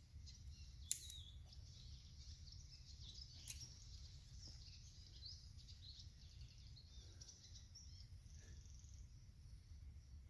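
Near silence: faint chirping of birds over a steady low rumble, with one sharp click about a second in.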